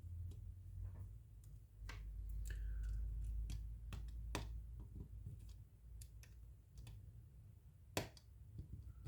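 Scattered light clicks and taps of small tools and phone parts being handled while reassembling a smartphone, with a sharper click about 2, 4.5 and 8 seconds in, over a low steady hum.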